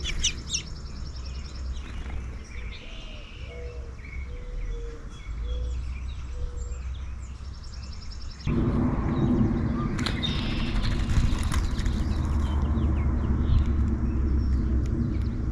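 Wild songbirds chirping and calling around a backyard feeder. About eight seconds in, a steady low motor rumble comes in suddenly and keeps on under the birdsong.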